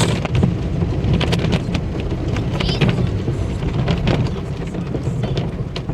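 Car wash cloth curtain strips slapping and dragging over a car, heard from inside the cabin as many quick slaps over a steady low rumble of the wash.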